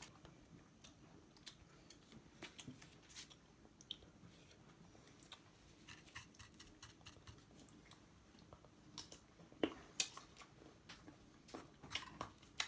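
Faint chewing of mango slices, heard as scattered soft crunches and clicks, with a few sharper clicks about ten seconds in and again near the end.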